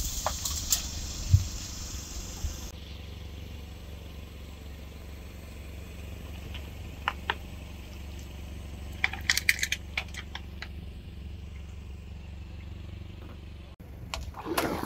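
Low steady rumble of an idling car engine, with a few short sharp clicks and crackles about seven seconds in and a cluster of them around nine to ten seconds.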